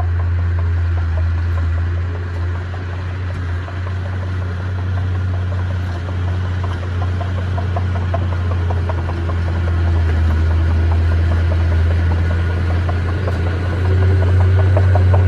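Heavy diesel engine of earthmoving machinery running steadily, with a deep continuous drone. Rapid rattling clatter comes in over it during the second half.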